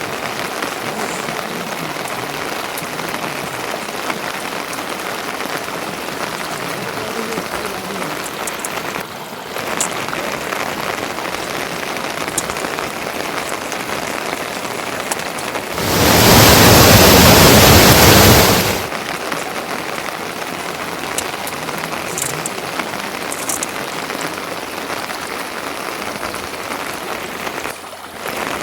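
Steady rain falling. About two-thirds of the way through, a much louder rush of noise lasts about three seconds, starting and stopping abruptly.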